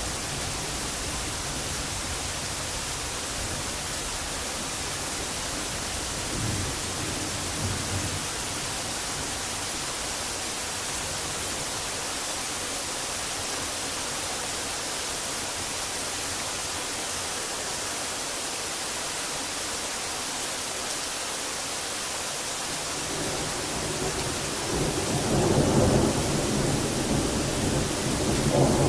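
Steady hiss of heavy rain, with a brief faint rumble of thunder about seven seconds in. Near the end a roll of thunder builds up and grows loud.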